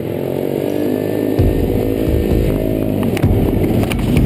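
110cc pitbike single-cylinder four-stroke engine revving hard, its pitch rising a little, holding, then dropping away about three seconds in.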